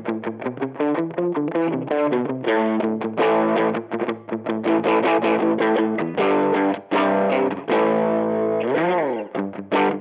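Electric guitar played through a TC Electronic MojoMojo overdrive pedal, giving a distorted tone. Runs of quick picked notes give way to held chords, and about nine seconds in a note is bent up and brought back down.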